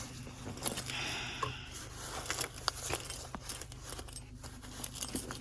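Keys jangling with scattered small clicks and scrapes as a person handles a key at a pickup-sized SUV, over a low steady hum.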